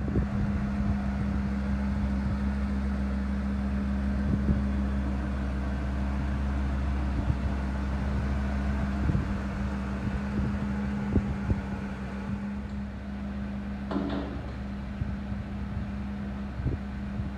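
A 2004 Ford F450's 6.8-litre V10 gas engine idling steadily, with a constant low hum. There is a brief higher-pitched sound about fourteen seconds in.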